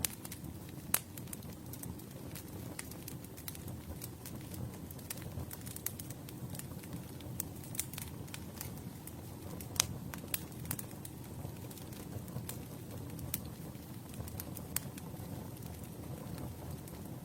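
Campfire burning: a low steady rush of flame under irregular sharp crackles and pops from the burning wood, with a louder snap about a second in and another near ten seconds.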